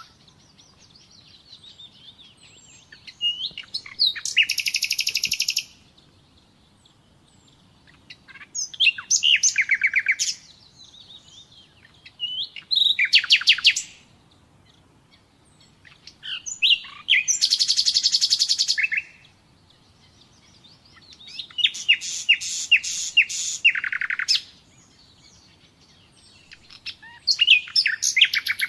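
Common nightingale singing: about six separate phrases of rapid repeated notes and trills, each lasting one to three seconds, with short pauses between them.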